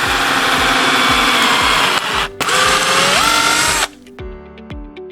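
Power drill driving screws that anchor an aluminium tile-roof hook to the purlin. It makes two runs: the first lasts about two seconds, there is a brief stop, then a shorter second run whose pitch rises near its end.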